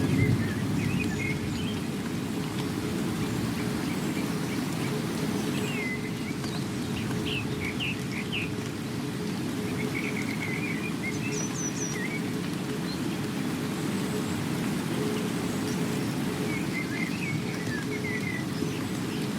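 Steady rain, with small birds chirping in short bursts now and then through it.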